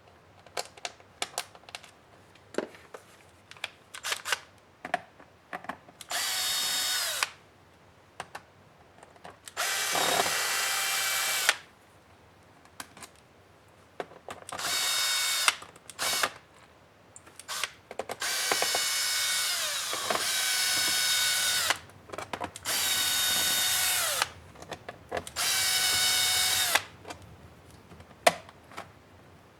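Small electric screwdriver running in short bursts of one to two seconds, about seven times, as it backs screws out of a laptop's plastic case, some runs winding down in pitch as they stop. Light clicks and taps of handling come between the runs.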